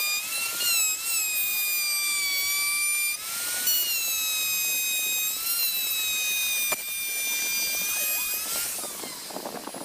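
Electric woodworking power tool running with a high-pitched whine, its pitch sagging and recovering as it cuts. The sound breaks briefly about three seconds in and again about seven seconds in, then fades near the end.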